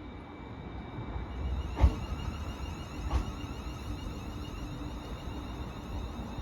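Class 380 electric train at the platform, a steady low rumble and hum with two sharp clunks, the first and loudest about two seconds in, the second a little after three seconds.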